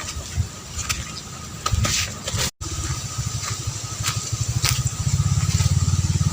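Small engine running with a fast, even putter, growing louder in the last second or so.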